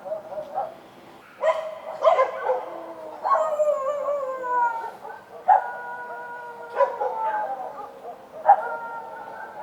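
Street dogs barking and howling: short sharp barks, with long drawn-out howls that slide down in pitch between them.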